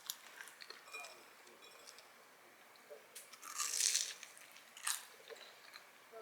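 Crunchy bites and chewing into a fried curry croquette, scattered small crackles with one louder, longer crunch about four seconds in and a sharp one just after.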